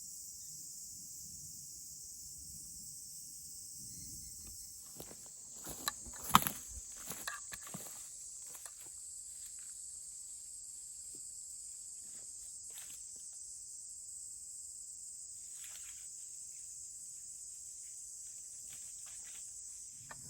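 A steady, high-pitched chorus of summer insects, with a cluster of rustles and snaps about five to eight seconds in, the loudest a sharp crack just past six seconds, and a few fainter rustles later on.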